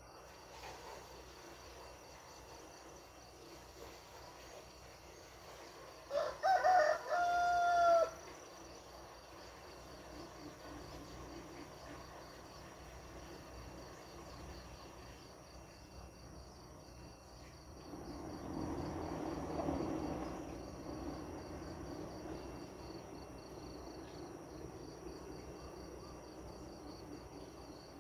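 A rooster crows once, loud and about two seconds long, about six seconds in, over steady cricket chirring. Later a low, broad noise swells up and slowly fades.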